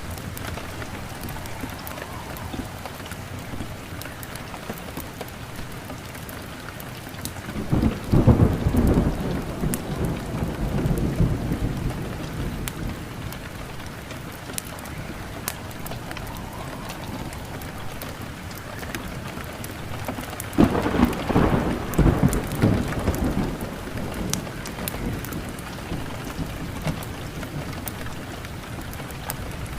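Steady rain with two long rolls of thunder, the first starting about eight seconds in and the second about twenty-one seconds in, each rumbling for several seconds before fading back into the rain. Scattered sharp little ticks sound over the rain throughout.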